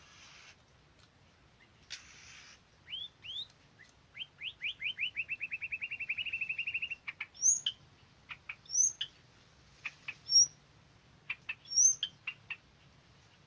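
White-rumped shama singing: a run of quick rising notes that speeds up into a rapid trill, then several loud, separate whistled notes. Two short hissing rustles come just before the song starts.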